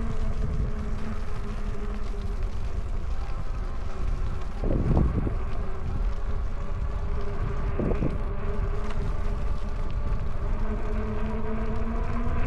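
Electric bike's hub motor whining steadily, its pitch drifting a little with speed, over low wind and tyre rumble. Two brief knocks from bumps in the trail stand out, about five and eight seconds in.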